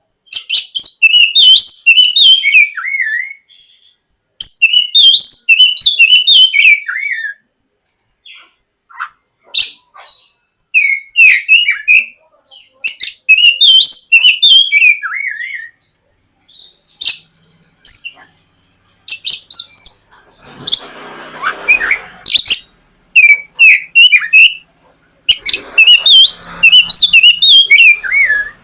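Oriental magpie-robin (kacer) singing loudly in its full, open 'ngeplong' song: rapid, varied whistled and warbling notes that slide up and down, delivered in phrases of a few seconds with short pauses between. A rough hiss sits under the song about two-thirds of the way through and again near the end.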